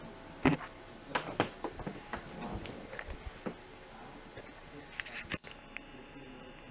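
Scattered sharp clicks and knocks: a loud one about half a second in, a cluster in the next few seconds and a short burst near five seconds.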